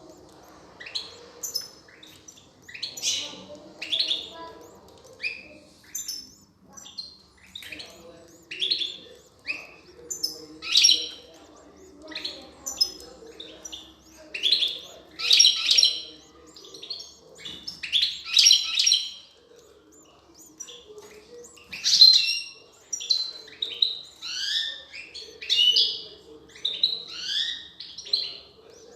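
European goldfinches chirping: clusters of short, high calls repeated every second or two, the loudest about two-thirds of the way in.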